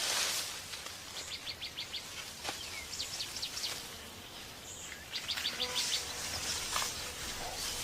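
Forest ambience: a bird gives three quick runs of rapid chirps, several a second, over a steady high hiss of insects.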